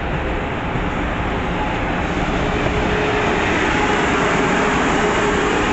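MBTA train running past close by: a steady rumble of wheels and engine that slowly grows louder.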